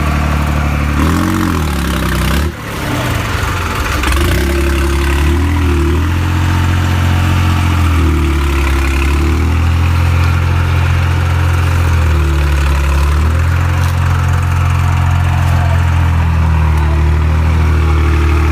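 Diesel tractor engine running with a steady low note, its speed dipping and recovering several times. The sound drops briefly about two and a half seconds in.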